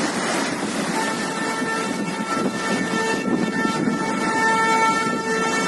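A horn sounding one long, steady note from about a second in, over a constant rush of wind on the microphone and breaking water.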